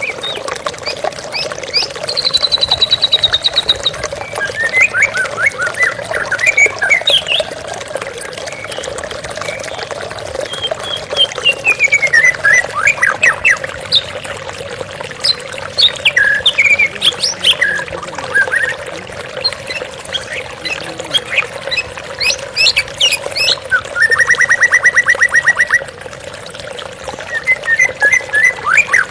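White-rumped shama singing a varied string of phrases, clear whistles, fast trills and harsh buzzy notes, with short pauses between them, over the steady sound of running water.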